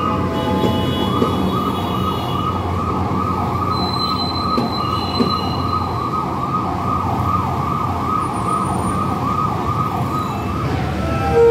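A passenger train running past on the rails with a low rumble, under an electronic warning siren that warbles up and down about three times a second. A steady horn-like tone starts right at the end.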